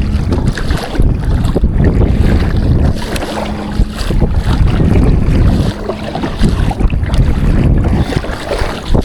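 Wind buffeting the microphone in uneven gusts, over water splashing and lapping against a kayak.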